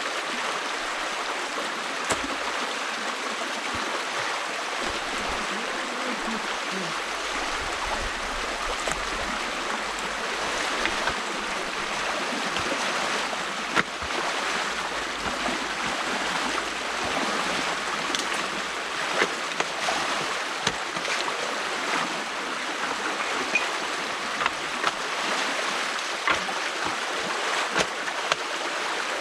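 Stream water rushing steadily through a beaver dam that is being opened up by hand, with frequent short splashes and knocks that come more often in the second half.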